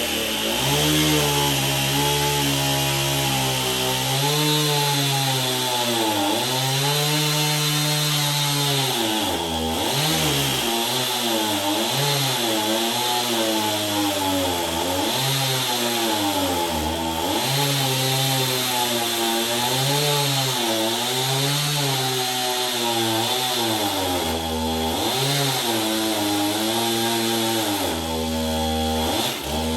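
Power tool running under load in hardwood. Its motor pitch sags each time it bites into the wood and climbs back as it eases off, over and over.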